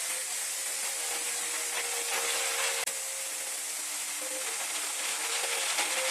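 Power tool running steadily with a loud hiss.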